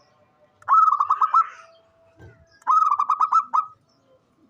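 Zebra dove (perkutut) song: two cooing phrases, each a quick run of about six or seven short notes.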